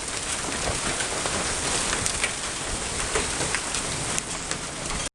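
Hailstorm: hailstones and rain pelting down in a dense, steady patter, with many sharp clicks of individual stones striking hard surfaces. The hail runs from dime to golf-ball size.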